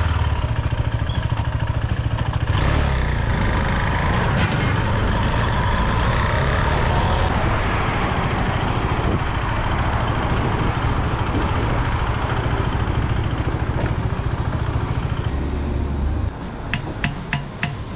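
Husqvarna Svartpilen 401's single-cylinder engine running steadily at idle just after starting, with a strong low exhaust rumble that drops away sharply about sixteen seconds in. A few short clicks follow near the end.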